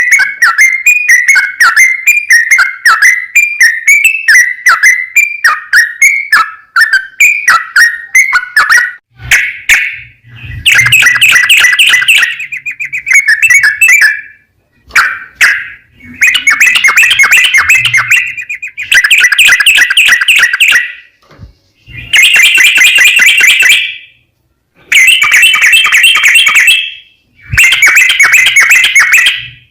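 Yellow-vented bulbul song: about nine seconds of quick, bubbling whistled notes, then a run of fast chattering phrases about two seconds each with short pauses between. This is the long continuous 'ropel' song that keepers use as a lure to set other bulbuls singing.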